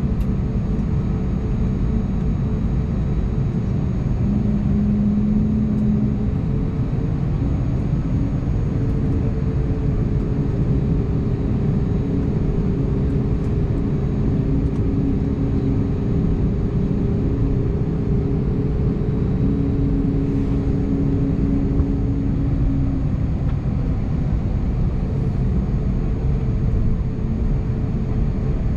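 Airbus A320neo cabin noise, heard from inside the cabin with the CFM LEAP-1A engines running: a steady low rumble with faint engine tones that shift a little in pitch.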